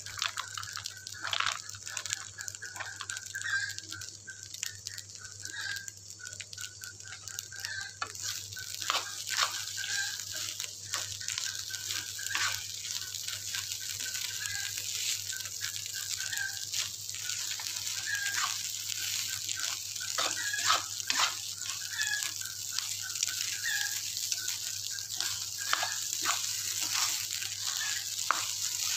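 Rice stir-frying in a wok: a steady sizzle, with a plastic spatula repeatedly scraping and tapping against the pan as the rice is tossed. The sizzle grows louder about eight seconds in.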